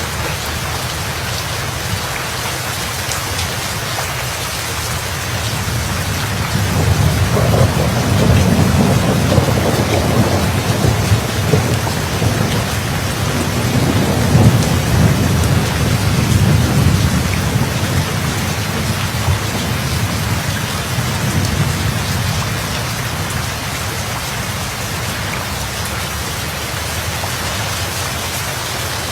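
Steady heavy rain falling, with a long roll of thunder that builds about six seconds in, rumbles for roughly ten seconds and fades away, leaving the rain.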